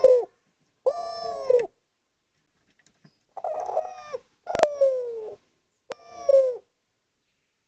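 Spotted dove (derkuku, tekukur) cooing: about five coos of under a second each, the first two close together and three more after a short pause, with a sharp click partway through the second group.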